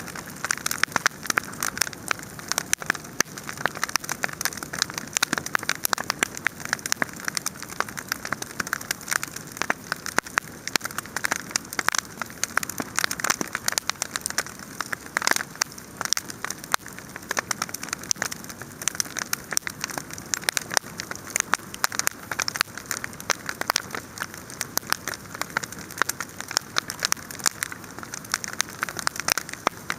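Wood fire crackling and popping: a constant run of sharp snaps over a hiss, with one louder pop about halfway through.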